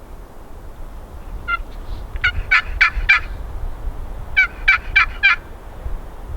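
Turkey calling in two short series of sharp yelping notes, about three notes a second, four or five to a series, over a low rumble.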